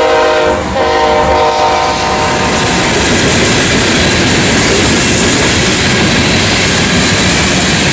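A freight train passing close by. A sustained droning tone from the passing locomotives fades over the first couple of seconds, then the steady rumble and wheel clatter of hopper cars rolling past.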